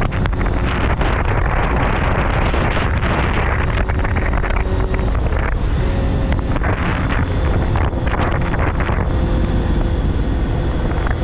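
Wind rushing over a helmet-mounted camera's microphone while riding, with the Honda CBR250RR MC22's inline four-cylinder engine running steadily underneath.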